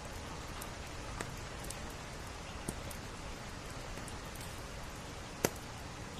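Steady rain on window glass with a wood fire crackling. Sharp pops come about a second in and near three seconds, and the loudest snap comes about five and a half seconds in.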